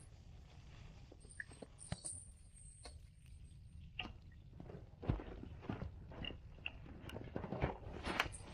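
Scattered light clicks and knocks of things being handled, sparse at first and busier from about halfway through.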